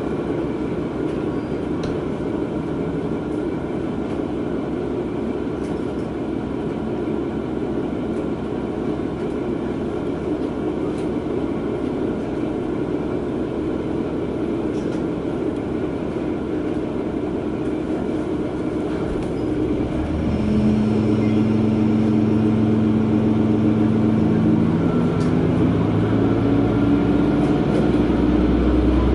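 Diesel railcar running with a steady drone. About two-thirds of the way through the engine is throttled up: it gets louder and its pitch climbs in several steps as the train accelerates.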